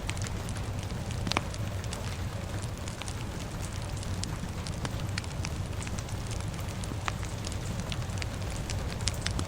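Fire crackling with frequent irregular pops, the sharpest about a second and a half in, over a steady low rumble of rain.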